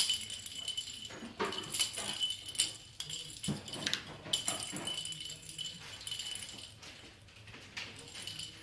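A kitten making short cries over light, rapid clicking and rustling noises.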